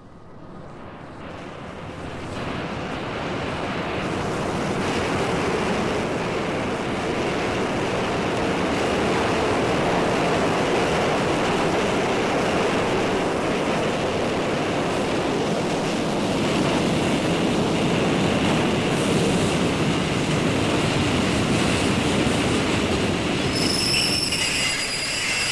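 A loud, steady rumbling noise fades in over the first few seconds and then holds, with a faint steady high tone running through it. High-pitched squealing tones join in near the end.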